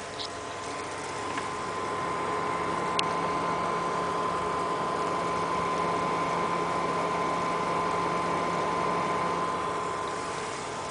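An XSPC water-cooling pump in a PC's liquid loop running with a steady high whine over a churning hiss of water. It grows louder about a second and a half in and eases off near the end, with one sharp click about three seconds in. The uploader traced the odd noise to the pump's tubes being connected to the wrong ports.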